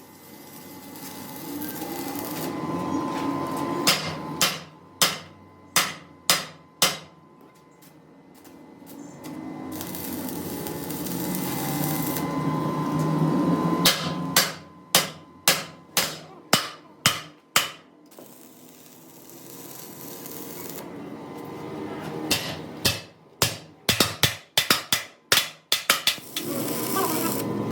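Hammer blows on metal in three bursts of several sharp strikes each, about two strikes a second. Between the bursts a steady noise swells and fades.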